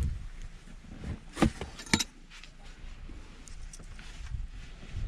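Snow being dug and cleared off solar panels, with a few sharp scraping knocks about a second and a half and two seconds in over a low rumble.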